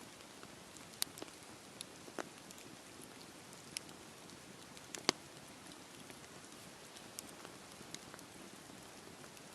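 Steady rain hiss over a campfire, broken by scattered sharp crackles and pops, about one a second. The loudest pop comes about five seconds in.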